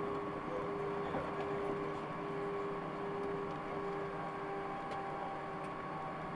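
Steady cabin noise inside an Airbus A319 taxiing after landing: the idling engines and the air-conditioning hiss, with several steady tones. The lowest of these tones fades out about two-thirds of the way through.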